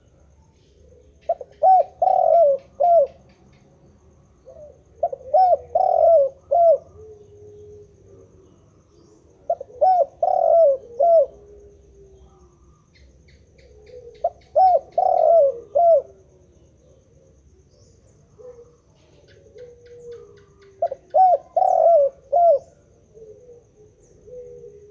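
Spotted dove (tekukur) cooing: five phrases of several short coos each, coming about every four to five seconds, with fainter lower coos trailing after them.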